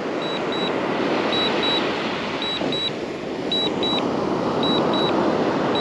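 Drone remote controller sounding short high double beeps about once a second, the warning during a forced return-to-home of the DJI Air 2S, over a steady rushing background noise.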